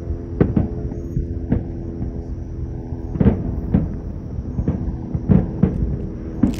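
Aerial fireworks shells bursting overhead: a run of irregular bangs, about nine in six seconds. A steady low hum runs under them.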